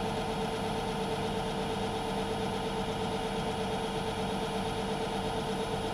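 Myford metalworking lathe running steadily, a constant machine hum with a strong even tone.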